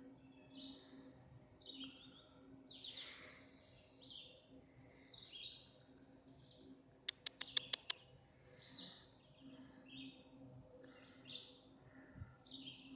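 Faint, repeated short high chirps of a small bird, roughly one a second. Just after seven seconds in comes a quick run of sharp clicks.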